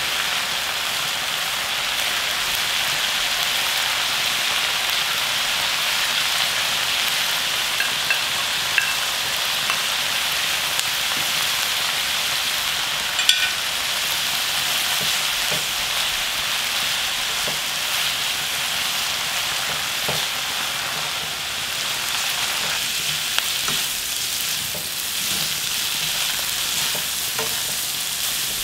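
Sweet potato stems and onion sizzling as they stir-fry in a frying pan, a steady frying hiss. A few light clicks of chopsticks and a spatula against the pan come through, one sharper about halfway and several near the end.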